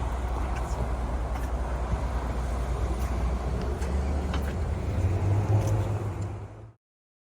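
A car engine running on a street with traffic noise. The low engine note grows louder about five seconds in, with a few faint clicks, and the sound cuts off abruptly near the end.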